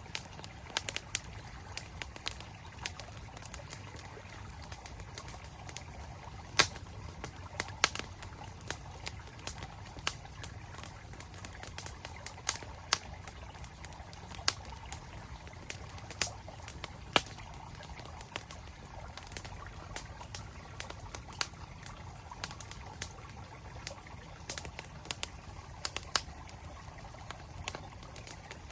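Campfire crackling with frequent sharp, irregular pops over the steady rush of a mountain stream. The loudest pops come about a third and about two thirds of the way through.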